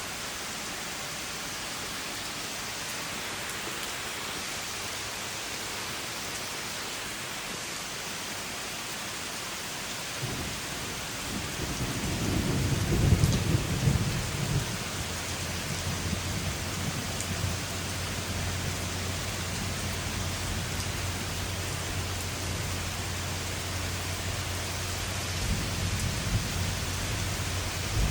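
Steady rain hissing, with thunder rumbling in about ten seconds in, peaking a few seconds later and rolling on low, then swelling again near the end.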